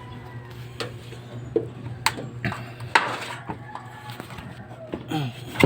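A series of sharp knocks and clatters at uneven intervals over a steady low hum.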